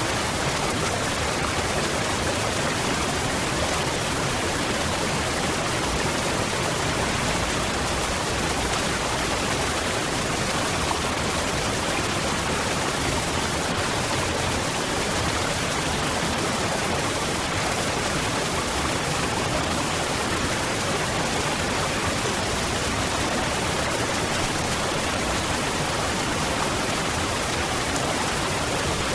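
Waterfall: water falling steadily.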